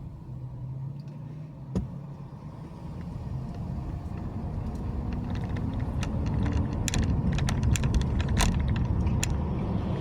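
Car being driven, its engine and road rumble growing louder and rising in pitch as it speeds up. There is one sharp click about two seconds in, and a scatter of light ticks and clicks in the second half.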